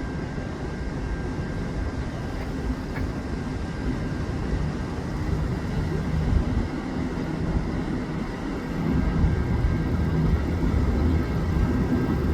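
A vehicle engine running, a steady low rumble that grows louder about nine seconds in.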